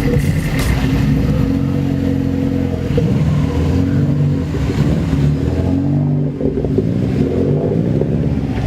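A car engine running and being revved, its pitch rising and falling several times.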